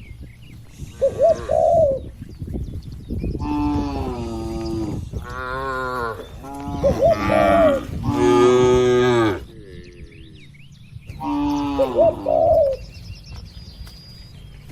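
Cattle mooing: several long, drawn-out moos one after another from about three seconds in to past the ninth second, with a shorter moo near the start and another near the end. Doves coo briefly in between.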